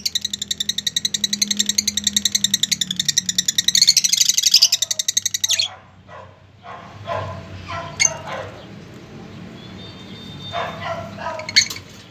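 Birds chattering: a fast, high run of about ten chirps a second that stops suddenly halfway through, followed by scattered lower calls.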